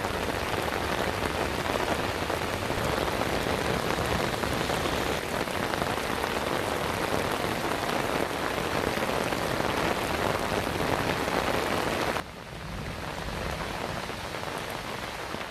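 Heavy rain pouring down onto a paved road, a steady even hiss of drops on a wet surface. It becomes noticeably quieter about twelve seconds in.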